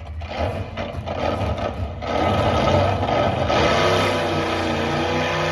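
Engine of a competition pulling vehicle running hard under load. It starts rough and pulsing, gets much louder with a noisy rush about two seconds in, then settles into a steady high drone.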